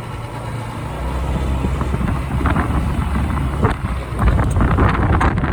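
Typhoon wind buffeting the microphone of a moving motorbike, a heavy gusting rumble over the motorcycle's engine and road noise, swelling louder about halfway through.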